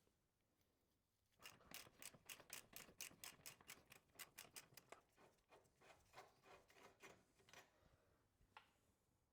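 Hand ratchet wrench clicking, faint and rapid at about five or six clicks a second, as a bolt is worked loose; it starts about a second and a half in and thins out to a few single clicks near the end.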